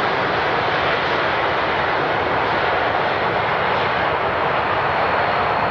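Airbus A350's Rolls-Royce Trent XWB jet engines running, a steady loud rush of engine noise with a faint whine.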